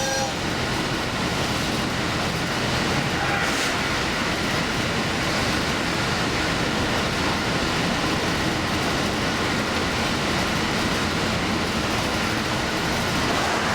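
Steady running noise of a diesel limited express train at speed, heard from inside: wheels on rail and the train's motion, an even rumble with no breaks.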